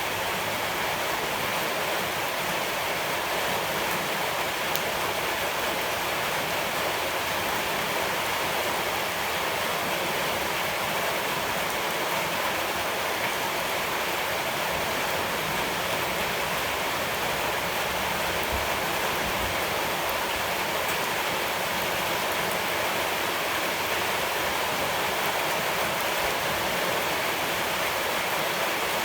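Steady rush of flowing water, even and unchanging throughout.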